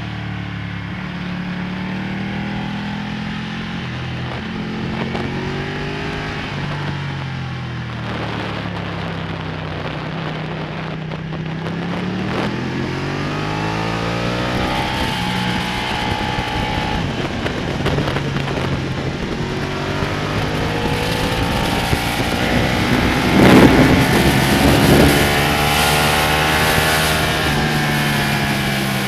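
Ducati Panigale's V-twin engine heard from on board at track speed, its pitch climbing and dropping again and again as the bike accelerates and slows. There is a loud rush of noise about two-thirds of the way through.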